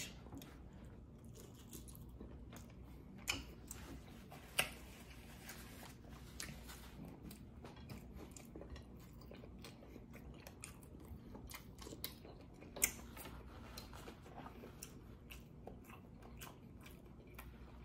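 Faint close-up chewing of lobster tail meat, with small wet mouth clicks throughout and a few sharper clicks standing out, about three, four and a half, and thirteen seconds in.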